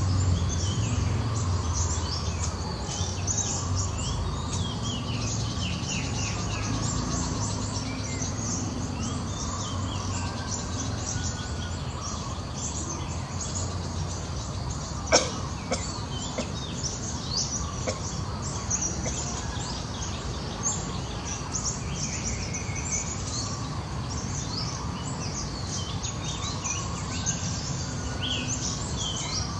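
Birds chirping, many short scattered calls over a steady outdoor background hiss, with one sharp click about halfway through.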